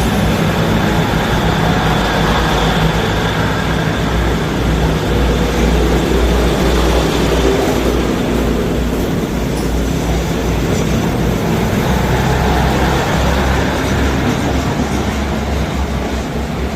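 Diesel train running with a steady low engine rumble and rail noise, easing off slightly near the end.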